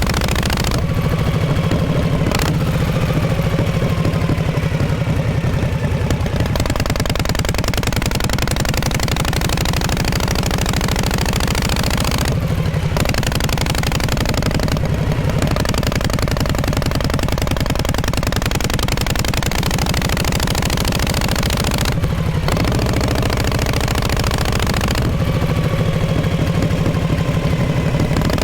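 1948 Harley-Davidson Panhead V-twin engine and exhaust running steadily, with a fast even beat of firing pulses. The note glides in pitch early on and near the end, with brief dips about 12 and 22 seconds in.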